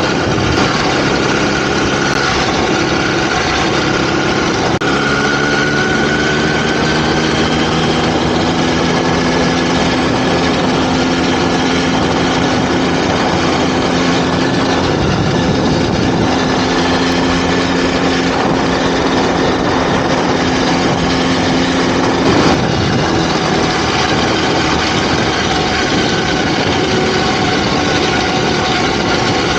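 Small two-stroke motorized-bicycle engine running steadily under way, its pitch rising slowly and holding, with a couple of shifts in speed and a brief sharp knock a little after the middle.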